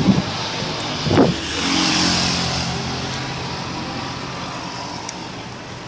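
A car passing by: engine and road noise swells about two seconds in, then slowly fades.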